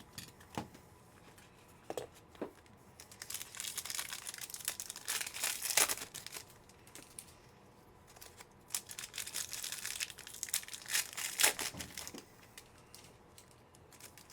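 Trading card pack wrappers being torn open and crinkled, in two bouts of crackling with a few small clicks before them.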